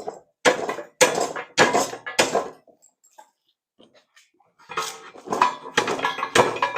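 Half-inch steel plate clanking against tight-fitting bolts as it is worked loose: four quick metallic clanks, a pause, then another run of clanks near the end.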